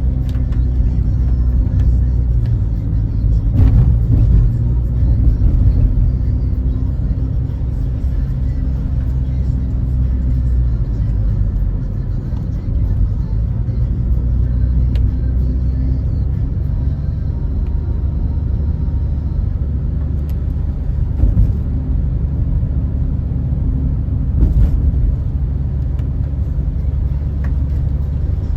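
A car driving, its engine and road noise making a steady low rumble, heard from inside the cabin.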